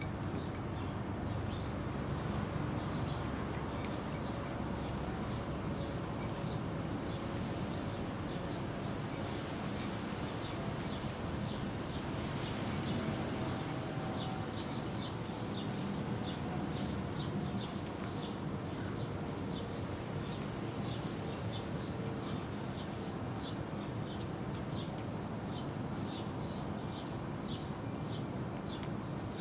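Small birds chirping in short, high, repeated notes that come thicker in the second half, over a steady low background rumble.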